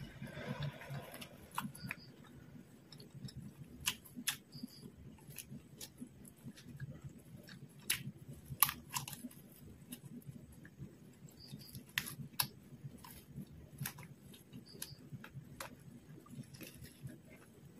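Close-miked eating sounds of fried quail eaten by hand: soft chewing throughout, with sharp wet clicks and lip smacks every second or so, the loudest about halfway through.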